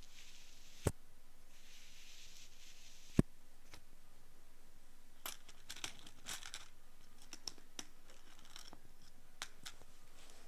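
Ear pick scraping earwax inside an ear canal, heard up close: two sharp clicks in the first few seconds, then a dense run of dry crackling scrapes in the middle and a few more ticks near the end.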